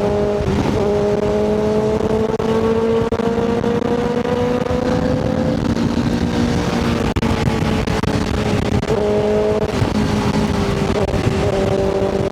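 Motorcycle engine running under way on the road. Its pitch climbs slowly for about five seconds and then eases down, with short breaks in the note about half a second in and again near nine seconds, over a steady low rush of wind and road noise.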